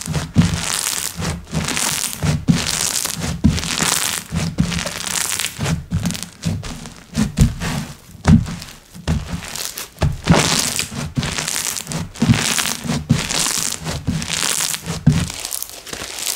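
Slime being squeezed, pressed and stretched by hand, giving repeated crackly, crunchy squishes about once or twice a second with soft low thuds.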